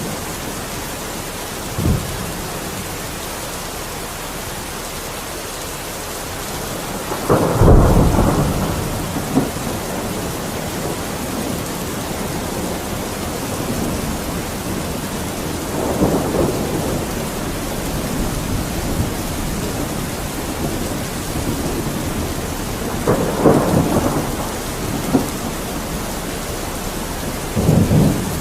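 Steady heavy rain with rolling thunder: a short crack about two seconds in, a loud low rumble around eight seconds, and several more rumbles later on.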